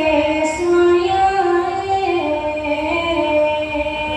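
A woman singing long, held notes that step up and down in pitch, over music.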